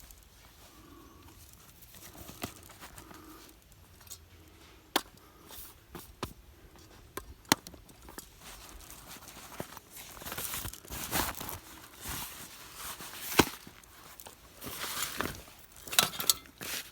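Hands handling things: rustling and crinkling, with a few sharp single clicks or knocks.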